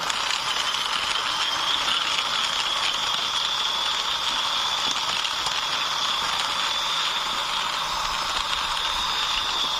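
Plastic toy six-wheeler drum truck rolling as it is pushed by hand, its wheels and body giving a steady rattle with a thin high whir.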